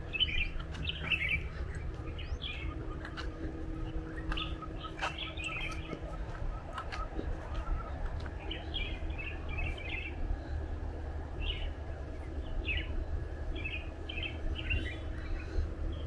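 Several birds chirping, short clusters of high chirps coming again and again, over a steady low rumble.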